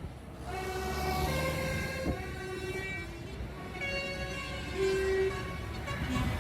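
Vehicle horns sounding a series of held toots at changing pitches, some overlapping, over the low rumble of tractor engines.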